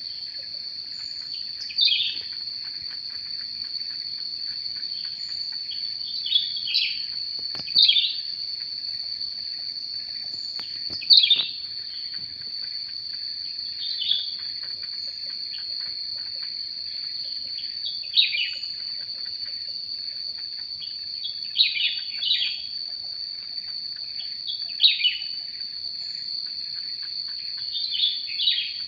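Cucak rante calls: short, sharply falling chirps every two to four seconds, some doubled. Under them runs a steady high-pitched insect drone.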